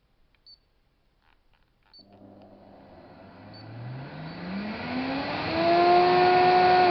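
Two short high beeps and a few clicks, then the İhlas Aura Cleanmax wet vacuum's motor starts about two seconds in, switched on remotely from the button on the hose handle. It spins up with a rising whine that grows louder and levels off near the end.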